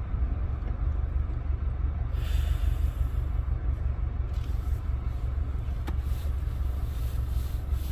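Off-road vehicle's engine running steadily with a low rumble while driving, with a short hiss about two seconds in and a single click near six seconds.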